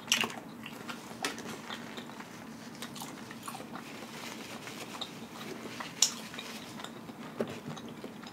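A person chewing a mouthful of boiled crawfish: soft wet mouth sounds with scattered small smacks and clicks, the sharpest one about six seconds in.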